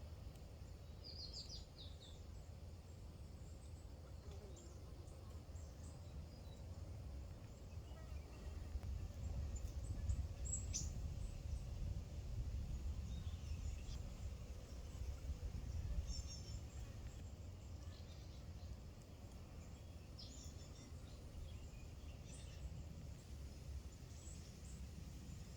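Small songbirds, great tits and blue tits, giving scattered short, high chirps and call notes, some as quick runs of repeated notes, over a steady low rumble of background noise.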